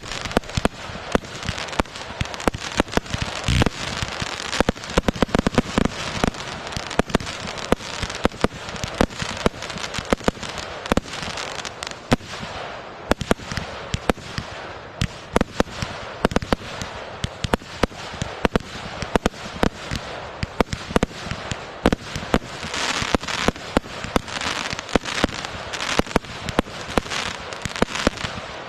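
Fireworks going off in a rapid, continuous barrage: many sharp bangs and crackles, several a second, with no pause.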